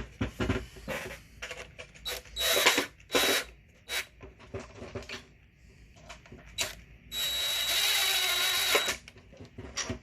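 Small power driver spinning screws in short bursts, with one longer run of about two seconds near the end carrying a thin high whine, between clicks and knocks of tools and metal parts. The screws are Allen-head cap screws holding down the chainsaw's fuel tank.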